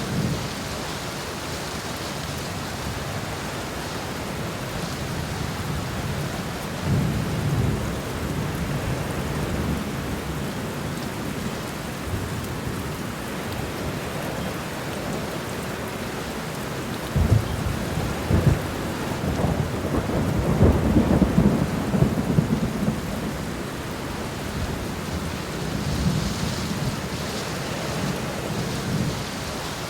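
Steady rain falling, with a deep rumble swelling briefly about seven seconds in and a longer, louder rolling rumble from about seventeen to twenty-three seconds in.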